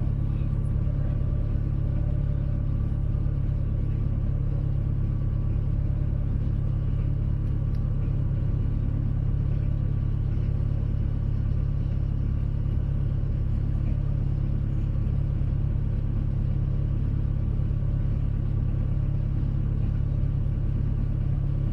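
Boat engine running steadily: a constant low drone heard from on board.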